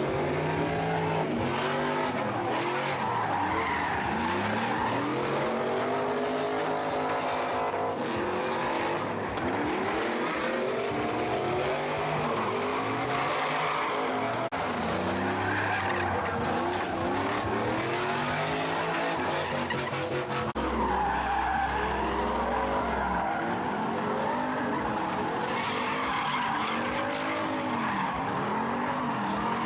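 Car engine revving up and down over and over while the tyres screech and skid, as a car is drifted or spun in donuts.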